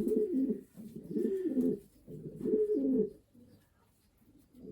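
Racing pigeons cooing: three low, warbling coos in quick succession, then a short lull.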